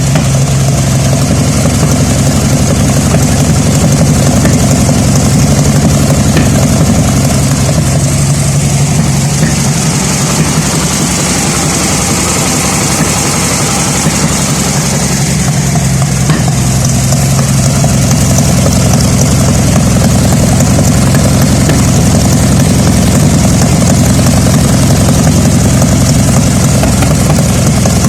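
Volkswagen Beetle engine running at idle, misfiring. The pitch shifts slightly about ten seconds in and settles again a few seconds later.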